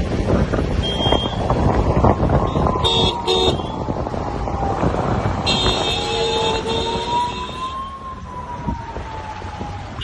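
Busy street traffic with engines running, two short horn beeps about three seconds in and a longer horn blast in the middle, over a siren slowly wailing down and up.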